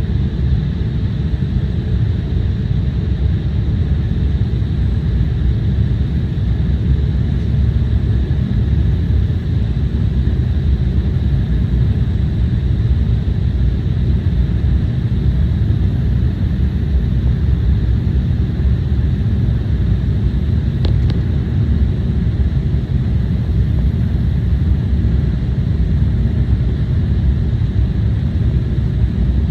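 Steady low rumble inside a jet airliner's cabin, the engines and airflow holding an even level, with a faint steady high whine above it.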